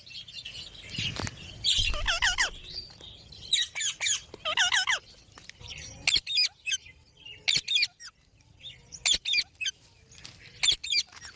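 Green pet parrots calling: bursts of short, warbling squawks and sharp repeated chirps, coming in clusters every second or two.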